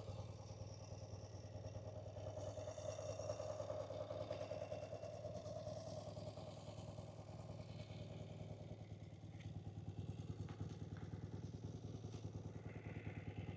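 1979 BMW R100S's air-cooled 980 cc flat-twin boxer engine idling steadily.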